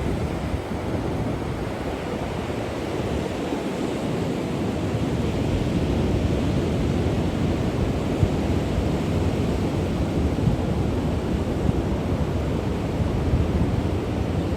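Wind buffeting the microphone: a steady rushing noise, heaviest in the low range, with no bird calls standing out.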